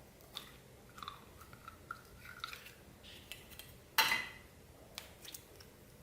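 Clear slime with plastic beads mixed in being worked by hand: scattered small crackles and clicks, with faint squeaks in the first half and one louder burst about four seconds in.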